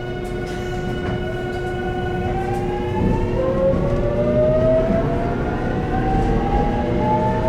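JR Kyushu 813 series electric train's VVVF inverter and traction motors whining as the train accelerates. Several tones hold steady for the first couple of seconds and then rise steadily in pitch, over a low rumble of the running gear.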